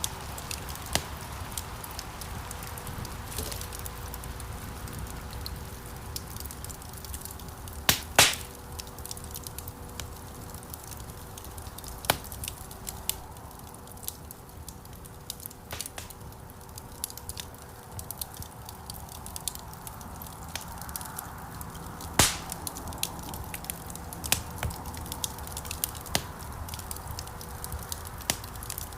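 Wood fire crackling in a fireplace: irregular sharp pops and snaps over a soft steady hiss, with the two loudest pops about eight seconds in and again around twenty-two seconds.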